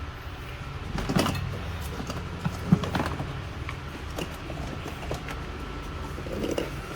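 Scattered knocks, clicks and rustles of plastic and metal dashboard parts being handled as the evaporator coil is worked loose, with one sharper knock a little under three seconds in, over a steady low hum.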